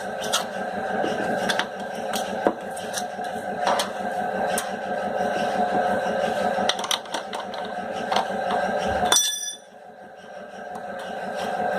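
Irregular light metallic clicks and taps of a 14 mm wrench working the nuts of a sewing machine's motor mount, over a steady hum. About nine seconds in there is a sharper clink, and the hum drops away, then slowly returns.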